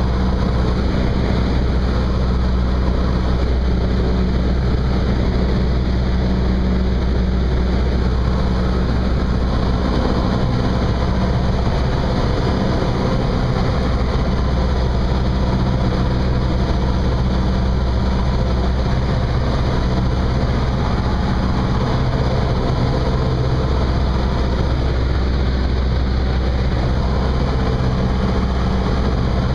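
Cessna 172's piston engine and propeller running with a loud, steady drone that barely changes in pitch or level.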